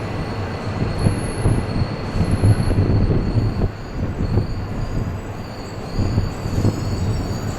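Shinkansen train running at the platform: a heavy rumble with a steady high-pitched whine over it, and strong wind buffeting the microphone.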